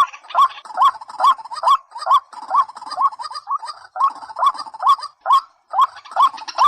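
Rail calling over and over: a loud, short upward-sweeping note about twice a second, with a brief pause about five and a half seconds in.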